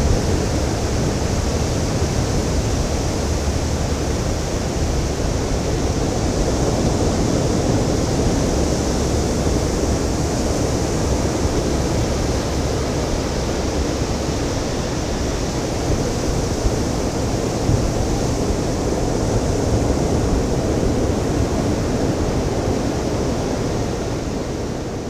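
Ocean surf washing onto a beach, a steady rushing of breaking waves that swells a little now and then.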